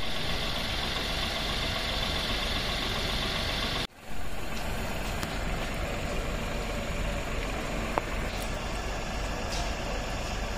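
Tata Altroz hatchback's engine idling steadily, with a brief break about four seconds in and a single click near eight seconds.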